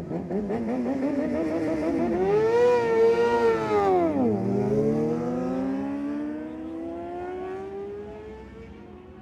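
Superbike accelerating hard past at full throttle: the engine note climbs, loudest about three seconds in, drops steeply as the bike goes by, then climbs again through the next gear as it pulls away.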